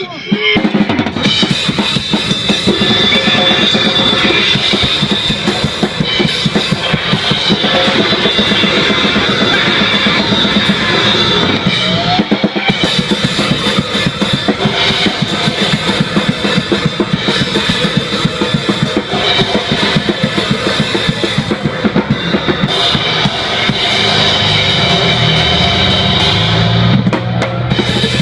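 Live band playing a loud, fast rock song, with a pounding drum kit, bass drum and cymbals driving it; low bass notes come in near the end.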